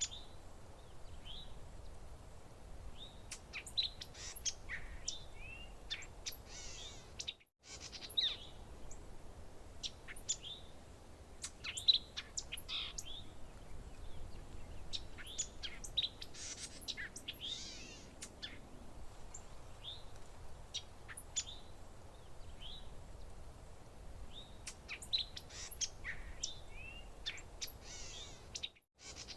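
Several songbirds chirping and calling in short, varied notes and quick sweeping phrases over a faint low background hum. The sound cuts out completely for a moment twice, about seven and a half seconds in and again near the end.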